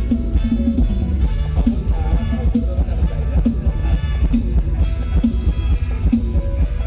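Mor lam band playing an instrumental passage with no singing: a steady drum beat over a heavy bass line.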